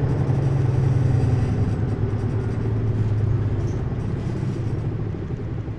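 Hino U-HT2MLAA city bus running, its engine a steady low drone that eases off and fades over the last couple of seconds. The uploader hears this bus as tending toward abnormal noises, near the worn, end-of-service state of its sister bus.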